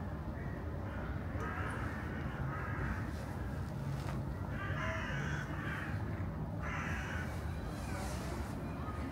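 A bird giving four rough, scratchy calls spaced over about six seconds, over a steady low background hum.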